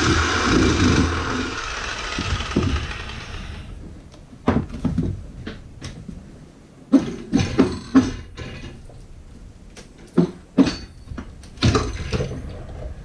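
An electric power tool running steadily while cutting to fit a new galley hob, stopping about three and a half seconds in. Then comes a scattering of sharp knocks and clatters.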